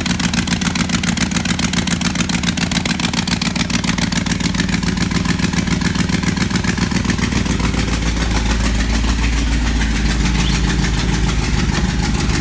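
A 2005 GM L33 5.3L aluminium-block LS V8 idling loudly, its exhaust leaking through a broken exhaust manifold. A deeper rumble comes in about halfway through.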